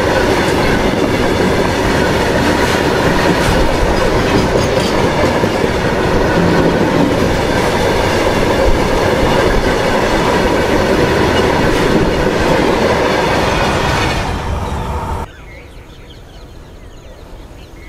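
Loaded freight wagons rolling past close at speed: a steady rumble and clatter of steel wheels on the rails, with ringing tones from wheels and rail. The sound fades a little near the end, then drops suddenly about fifteen seconds in to a quiet background with faint bird calls.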